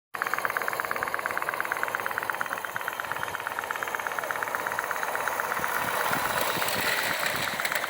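Stirling-engine-powered G scale Shay-type model locomotive running, a fast, even mechanical clatter that starts suddenly.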